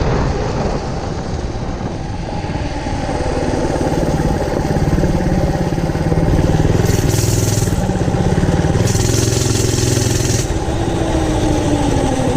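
Single-cylinder 212cc four-stroke engine of a Mega Moto minibike running during a ride. The revs climb over the first several seconds and ease off near the end.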